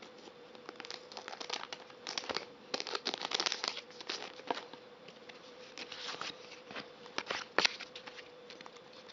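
Foil wrapper of a Pokémon trading card booster pack crinkling as it is torn open, with irregular crackles and ticks that come thickest a couple of seconds in. A faint steady hum lies underneath.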